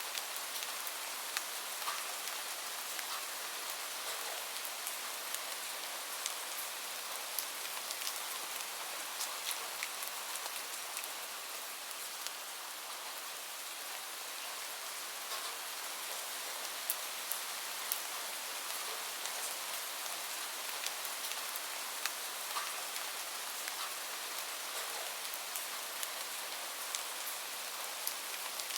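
Steady hiss of gentle rain, with scattered sharp crackles and pops from a wood fire.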